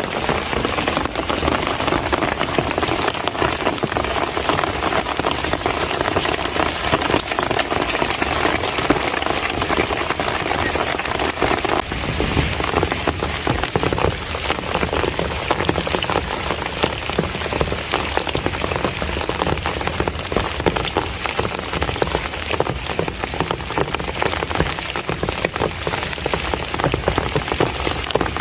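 Steady heavy rain from the summer monsoon falling and pattering on surfaces, a dense even hiss full of fine drop impacts.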